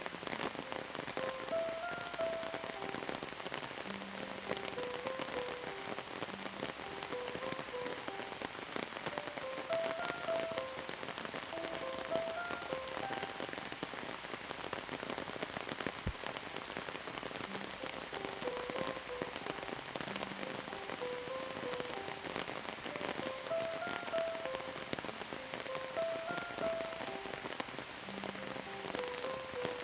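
Steady rain falling, a dense patter of drops, with a soft melody of short notes that repeats every eight or nine seconds.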